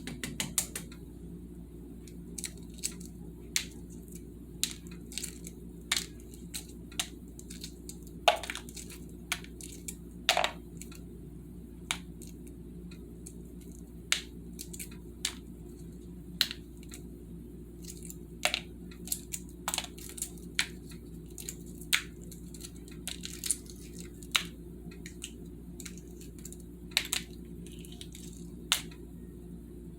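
Shell of a hard-boiled egg being cracked and picked off by hand: irregular sharp crackles and clicks, one or two a second, over a steady low hum.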